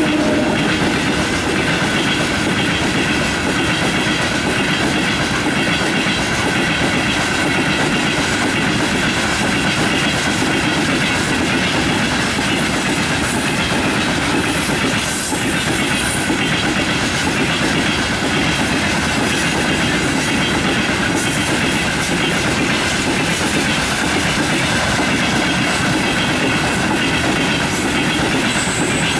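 Freight train's wagons rolling past at speed: a loud, even rolling noise of steel wheels on the rails, with faint steady high ringing tones running through it.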